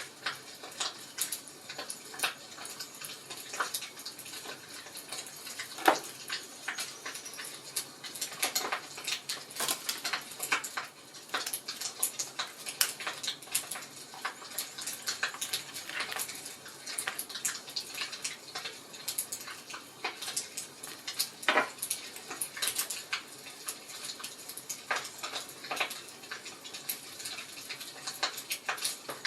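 Wood fire crackling in a fireplace: a steady hiss with many irregular small pops and snaps, one sharper pop about six seconds in.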